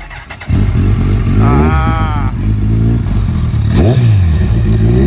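Kawasaki ZX14R sport bike's inline-four engine starting up about half a second in and settling to idle, then revved in short blips that rise and fall in pitch, about three times.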